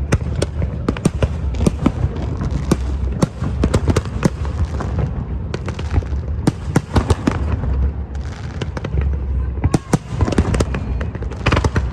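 Fireworks going off in a dense, irregular string of sharp bangs and crackles over a steady low rumble.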